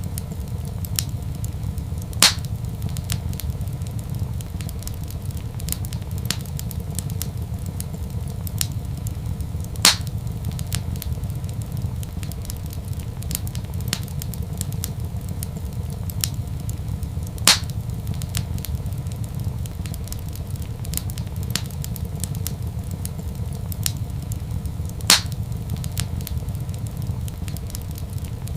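Wood fire crackling in a fireplace: a steady low rumble with small crackles throughout and four louder pops, evenly spaced about seven and a half seconds apart.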